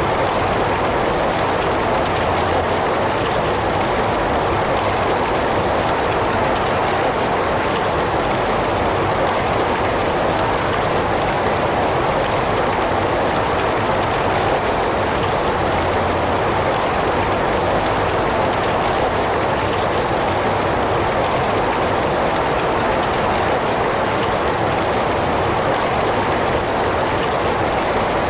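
Steady heavy rain falling, a dense, even hiss with no distinct drops or thunder.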